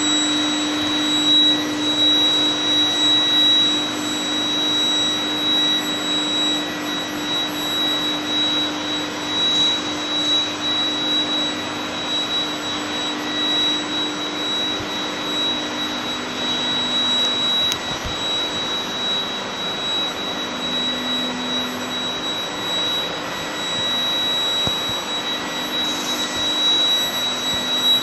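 Induction heating and hot rolling line running: a steady industrial din with a constant high-pitched whine throughout.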